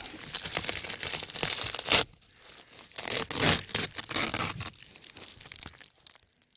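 Dryer vent ducting and its tape being pulled open by hand: crinkling, crackling and tearing, with one sharp snap about two seconds in and a second burst of crinkling a second later, dying away near the end.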